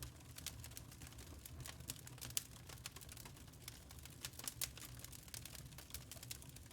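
Wood fire crackling in a fireplace: irregular small snaps and pops over a low steady rumble, with one louder pop about two and a half seconds in.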